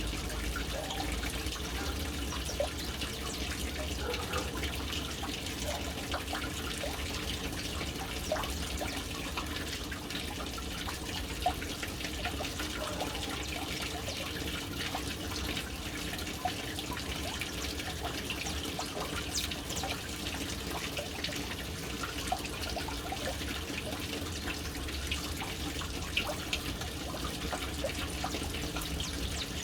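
Water falling into a household water storage tank: a steady splashing trickle with many small drips scattered through it.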